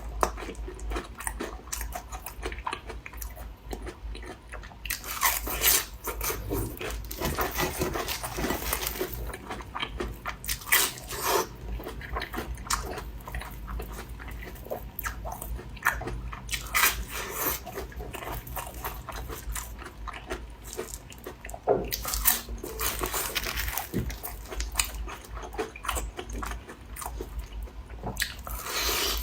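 Close-miked eating sounds: a person biting and chewing crunchy food, with a sharp crisp bite every few seconds among the chewing.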